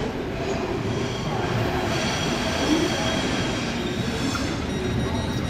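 Train hauled by an SBB Re 420 (Re 4/4 II) electric locomotive rolling slowly over curved station tracks and points, a steady rumble of wheels on rail. About two seconds in, a thin, high wheel squeal of several tones joins it.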